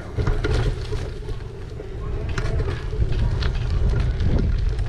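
E-bike riding along a street: a steady low rumble of wind buffeting the microphone and tyre noise, with scattered small clicks and rattles.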